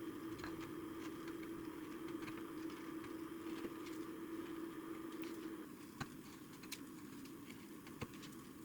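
Hand carving tool cutting wood, heard as a few sharp, scattered clicks of small paring cuts, over a steady hum that stops about six seconds in.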